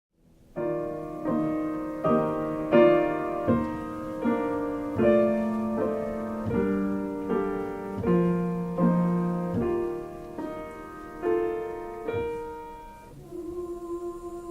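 Slow piano accompaniment: chords struck about every three-quarters of a second, each left to ring and fade. Near the end the strikes stop and a soft held tone begins.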